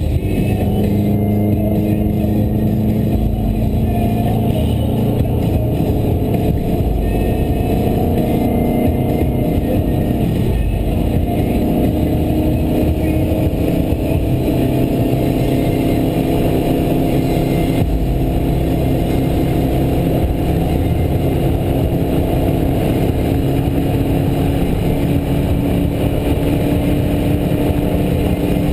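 Turbocharged Subaru Forester XT's flat-four engine running steadily at highway speed, with tyre and road noise, heard from inside the cabin.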